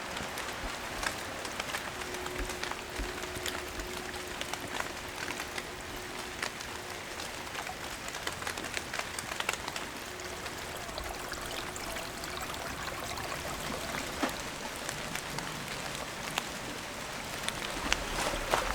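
Forest ambience: a steady hiss filled with many light, irregular ticks and patters, growing louder and crunchier near the end.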